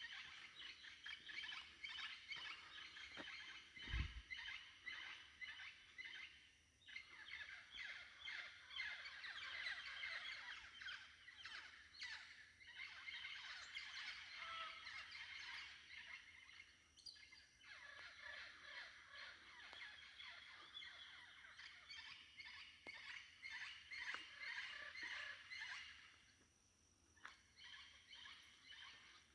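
Dense dawn chorus of tropical rainforest birds, many calls overlapping, dropping away briefly a few times and thinning near the end. A single low thump about four seconds in.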